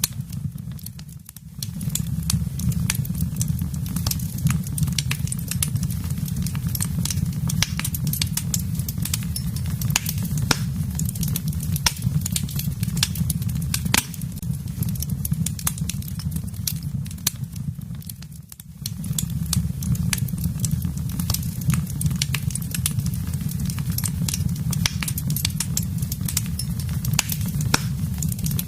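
Wood fire crackling with dense, irregular sharp pops over a steady low rumble. The sound briefly drops away about a second in and again about two-thirds of the way through.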